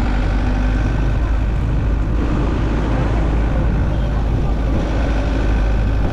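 Steady low rumble of road and engine noise from a moving vehicle, heard from inside it.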